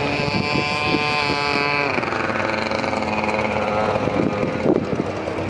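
Ford Mustang engine revving hard on an autocross run. Its pitch climbs, drops sharply about two seconds in, then builds again at lower revs. A couple of knocks near the end.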